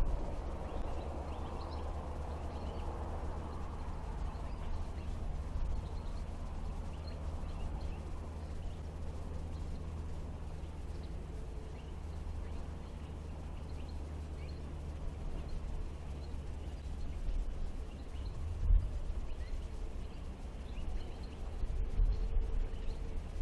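Rural outdoor ambience: a steady low rumble with faint, scattered bird chirps, and a few louder low thumps near the end.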